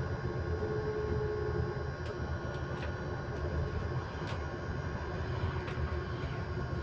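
Electric bus running. Several steady, constant-pitch tones sound over a low road rumble, with a few light rattling clicks.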